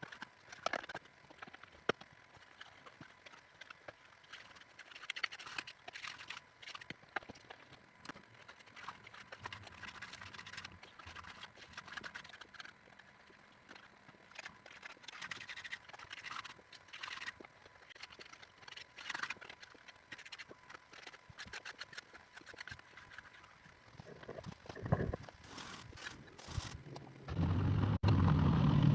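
Scattered light scrapes, clicks and rattles of tools working soil and stones. Near the end a much louder, steady low machine engine sound comes in, typical of the excavator running.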